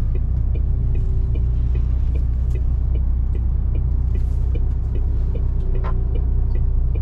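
MAN TGS 470 hp truck's diesel engine running steadily under way, a deep constant rumble, with a faint regular ticking a few times a second.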